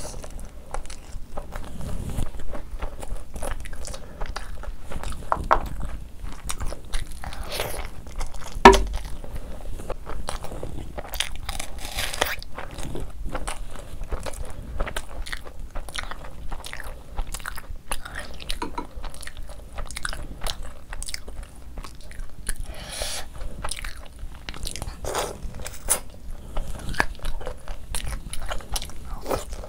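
A person eating close to the microphone: steady wet chewing and biting of curry-soaked naan and fried prawns, with many small crunches and mouth clicks. One sharp, loud knock comes about nine seconds in.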